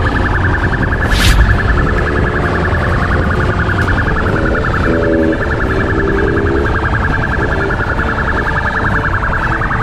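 Police siren sounding in a rapid, fast-pulsing warble, with a low rumble underneath. A single sharp knock about a second in.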